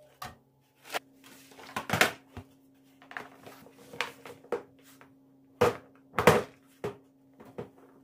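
A series of knocks and clatters from household objects being handled and set down, the loudest about two seconds in and again about six seconds in, over a faint steady hum.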